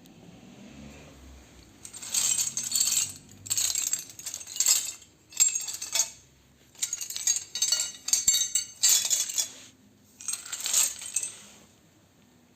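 Small pieces of scrap metal clinking and jingling together in about eight bursts, each a second or less long, with short pauses between them.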